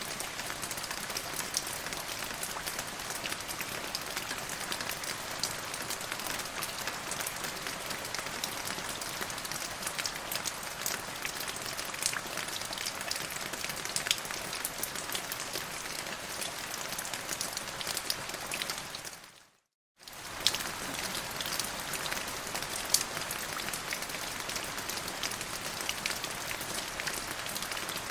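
Steady rain falling on a surface, a constant hiss with many individual drops ticking through it. About 19 seconds in, the rain fades out to silence for a moment and then comes straight back, like an edit or loop point in the recording.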